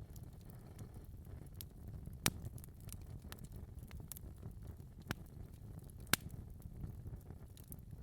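Wood fire burning in a fireplace: a steady low rumble of flames with scattered crackles and sharp pops, the loudest three at about two, five and six seconds in.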